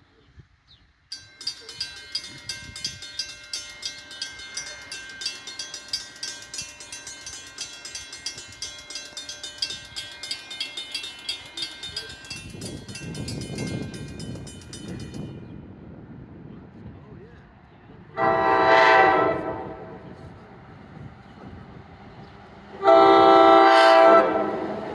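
A grade-crossing bell rings rapidly and evenly for about the first fifteen seconds, then stops. Meanwhile the low rumble of an approaching NJ Transit train builds. The train's locomotive horn then sounds two loud blasts, about two-thirds of the way in and near the end, the second the louder.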